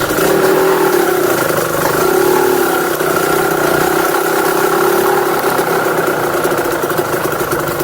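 Engine idling steadily on its stock exhaust.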